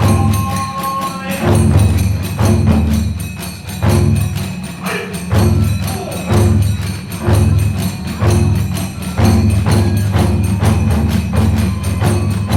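Kagura hayashi accompaniment in fast Geihoku style: big and small taiko drums beat a driving, pulsing rhythm under a rapid, continuous clash of tebyoshi hand cymbals. A bamboo flute's held notes are heard at the start.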